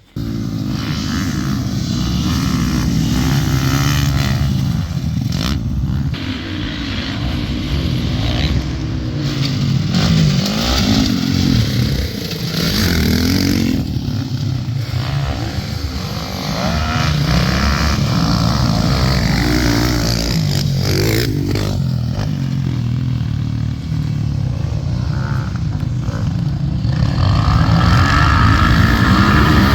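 Yamaha YZ250F dirt bike's single-cylinder four-stroke engine with an FMF 4.1 titanium exhaust, ridden hard on a motocross track: it revs up and drops back again and again as the rider works the throttle and gears.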